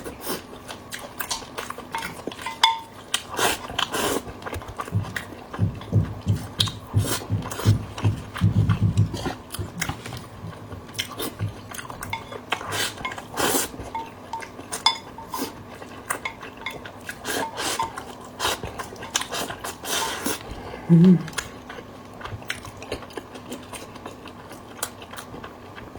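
Close-miked eating of fatty meat and soup: chewing and mouth sounds, with a run of rapid chewing pulses a few seconds in, amid frequent sharp clinks of utensils against a bowl. A short hum of the eater's voice comes near the end.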